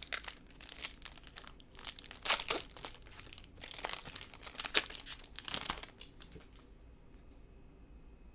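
A trading-card pack's wrapper being torn open and crinkled, in a run of sharp crackles, loudest about two and five seconds in, that die away after about six seconds.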